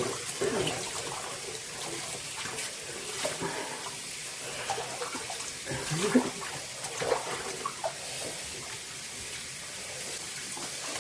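Tap water running steadily and splashing as a dog is rinsed in a sink of water, with some short irregular splashes.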